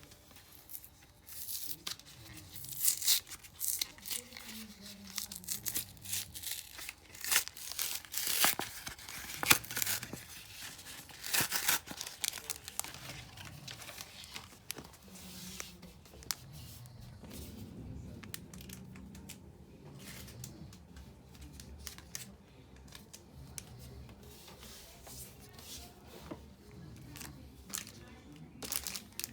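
Yu-Gi-Oh! booster pack foil wrappers being torn open and crinkled by hand. A run of sharp tearing and rustling fills the first twelve seconds or so, then quieter handling follows.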